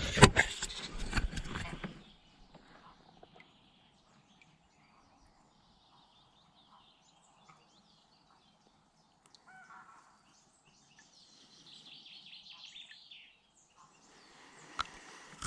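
Faint bird calls over a quiet lake: a short call about ten seconds in, and high twittering song a little later. A loud rushing noise fills the first two seconds and then stops.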